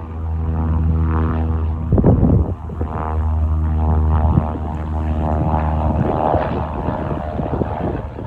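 Cessna 172S Skyhawk SP's four-cylinder Lycoming piston engine and propeller running at a steady pitch, with gusts of wind buffeting the microphone about two and four seconds in.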